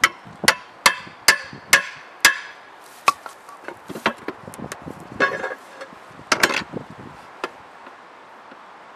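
Hammer blows with a short metallic ring, about two a second at first, then slower and irregular, stopping about seven and a half seconds in.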